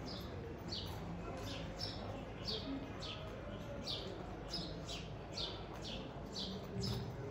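Birds chirping over and over, short sharp chirps that drop in pitch, about two a second, over a low steady background of street noise.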